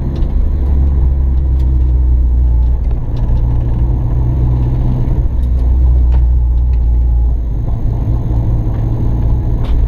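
MG ZR's engine running steadily on the move, heard from inside the cabin. Its note shifts briefly about three seconds in and again after seven seconds, with a few light clicks and rattles over it.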